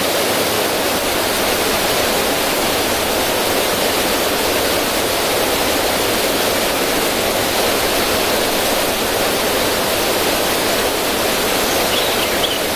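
River water running steadily over rocks in a small cascade: a constant rush and splash of flowing water.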